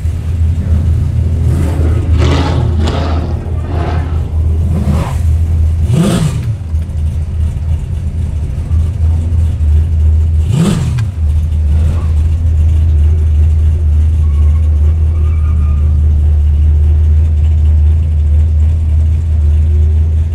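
1970 Ford Falcon XW GT's V8 with a full exhaust, heard from inside the car: a steady low rumble while cruising slowly, broken by quick throttle blips. There are several blips in the first few seconds, then single sharp revs at about five, six and eleven seconds in.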